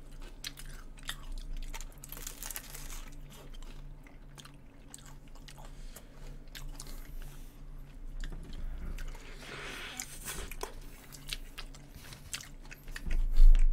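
Close-miked eating: bites into a crisp-shelled McDonald's apple pie and chewing, with many small crunchy clicks and crackles. A dull thump near the end.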